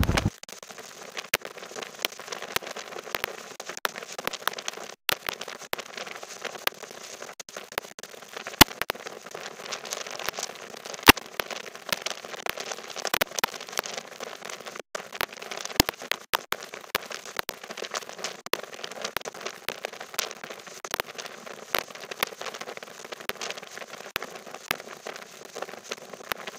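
Rain pattering and crackling on the microphone: dense, irregular sharp ticks over a thin hiss, a few much louder than the rest, with no low wind rumble.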